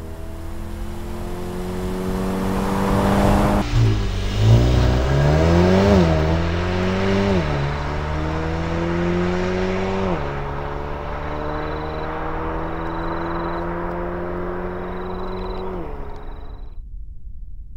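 Mercedes-AMG GLB 35 4MATIC's turbocharged four-cylinder engine at full throttle, revs climbing and then dropping sharply at each quick upshift, several times over. The engine note cuts off about a second before the end.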